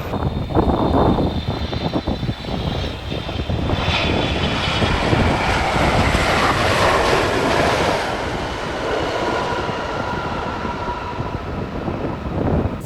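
Airliner passing close by, its engines running loudly, with a whine that slowly falls in pitch as it goes past.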